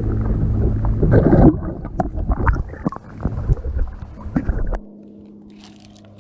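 Low rumbling with knocks and clicks from someone moving about and handling gear in a kayak, cut off sharply near the end to leave a quieter steady low hum.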